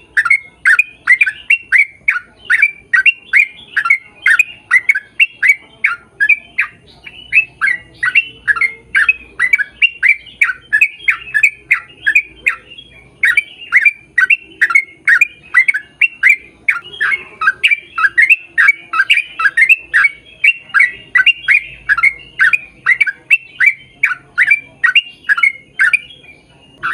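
A bird squawking over and over, about three short calls a second, each sliding down in pitch, with a brief break about halfway and another near the end.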